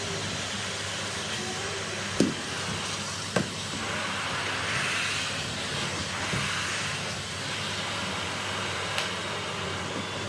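Henry vacuum cleaner running steadily with an even hiss and low hum, with two short knocks about two and three and a half seconds in.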